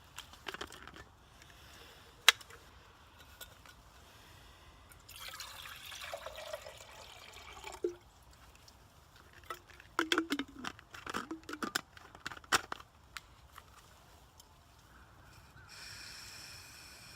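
Water pouring into a small pot for tea, with metal clinks and clatter as the pot and little camp stove are set up. A sharp click comes about two seconds in, and a steady hiss starts near the end.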